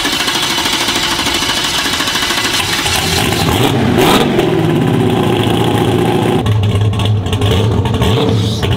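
Turbocharged LS V8 street truck at full throttle on a drag-strip pass, loud throughout. Its pitch climbs and then breaks at gear changes about four seconds and about six and a half seconds in.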